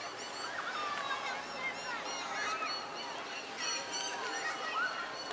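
Many birds calling at once: a busy chorus of short chirps, whistles and swooping calls overlapping throughout.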